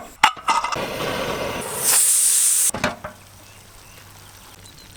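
Country chicken curry sizzling in a pot as it is stirred, with a few knocks; a loud hissing sizzle cuts off abruptly about three seconds in and the rest is much quieter.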